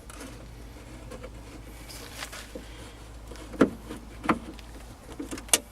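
A Phillips screwdriver removing the screws that hold a tail light in the side of a rear door, heard as a few scattered sharp clicks and knocks of the tool and screws.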